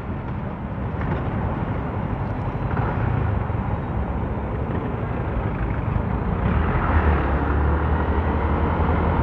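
Motorcycle riding on the road: engine drone and road noise picked up by the action camera's microphone, with little wind noise. The low drone grows louder about six and a half seconds in.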